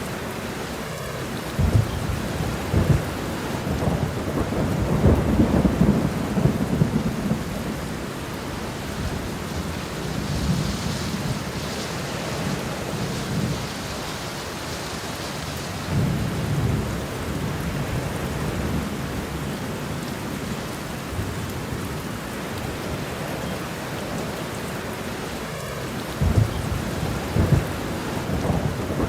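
Steady rain with rolling thunder. Deep rumbles swell up several times, loudest about five seconds in and again near the end.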